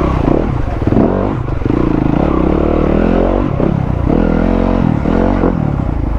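Enduro dirt bike engine revving up and down over and over as the throttle is worked, climbing over rough, slippery ground.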